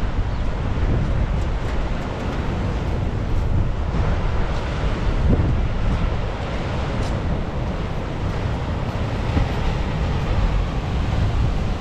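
Strong wind buffeting the microphone with a deep, gusting rumble, over the steady rush of rough surf.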